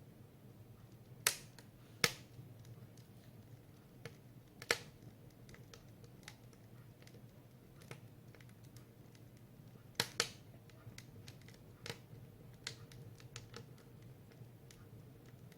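Firewood crackling as it burns in a wood stove: irregular sharp pops and ticks, a few of them much louder, including a quick pair about ten seconds in.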